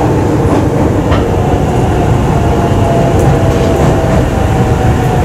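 Aonami Line electric commuter train heard from inside the passenger car, running and pulling into a station with a steady rumble. A faint steady whine joins about halfway through.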